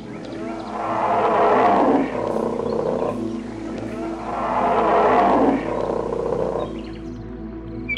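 A large wild animal gives two loud, rough calls, each about a second and a half long, with a pause of about two seconds between them, over steady background music.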